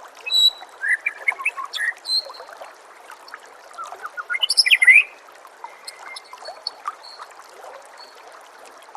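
White-rumped shama (murai batu) singing in short, varied whistled phrases, loudest in a burst about four to five seconds in, over a steady background of trickling water.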